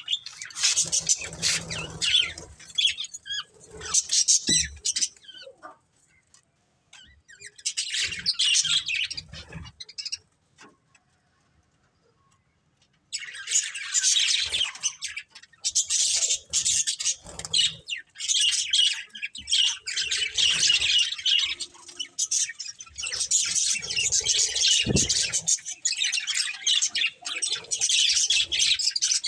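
Budgerigars chirping and chattering in quick, high calls, in bursts broken by two short pauses, then near-continuous chatter for the second half.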